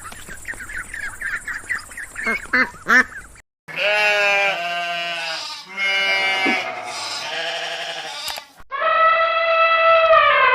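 A sequence of animal calls: a run of short, quick calls for about three seconds, then after a brief break several drawn-out pitched calls, then one long higher call that falls in pitch at its end.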